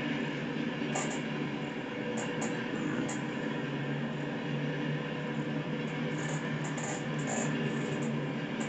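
Train rolling past, a steady rumble and hum with brief high-pitched squeaks from the wheels, a few near the start and a cluster near the end.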